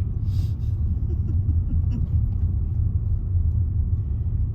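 Car driving, heard from inside the cabin: a steady low rumble of engine and tyre noise, with a brief hiss just after the start.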